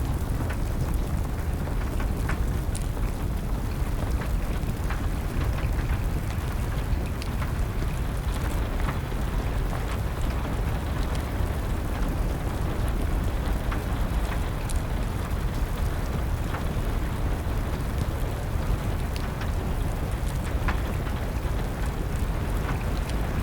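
Steady rain with a wood fire crackling, giving scattered sharp pops over an even low rush.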